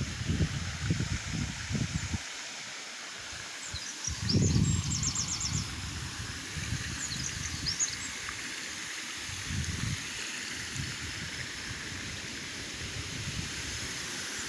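Small birds chirping in short high calls, with a quick trill about a third of the way in, over the steady rush of flowing water. Low gusts of wind hit the microphone near the start and again a few times later.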